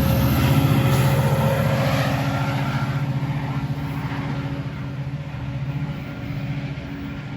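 Diesel locomotive engine of a Metra commuter train running with a fast, even throb, fading steadily as it moves away.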